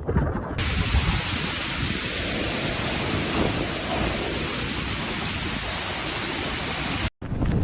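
Typhoon rain and wind making a dense, steady rushing noise, which cuts off abruptly near the end.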